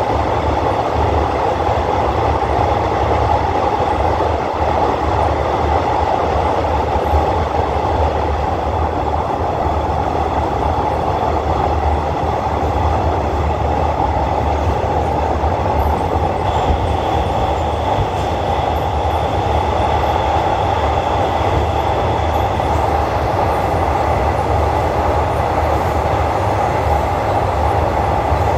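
A passenger train running steadily at about 80 km/h on an elevated track, heard from inside the carriage through an open window: a loud, even rumble of wheels on rail with rushing air.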